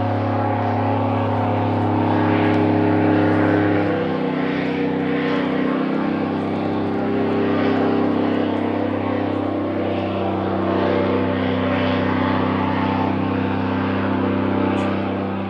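Airboat running loud, its engine and air propeller giving a steady droning note that shifts in pitch about four seconds in and again about ten seconds in.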